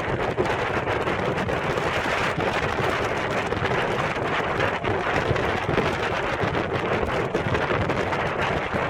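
Hatz E75 single-cylinder air-cooled diesel engine running steadily on a test run.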